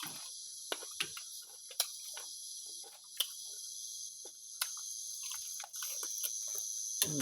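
Crickets chirring steadily and high-pitched, with scattered short clicks and smacks of chewing close by. A short falling vocal sound comes near the end.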